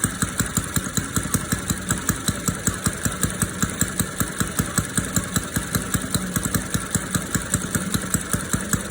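YS FZ-120 four-stroke glow model engine fitted with a Saito muffler, idling steadily with an even, regular beat.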